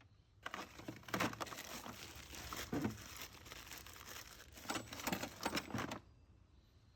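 Faint workshop handling noises: scattered light clicks and knocks of metal parts with some rustling, as a crankcase splitting tool is set up on the engine casings. The sound cuts off about six seconds in.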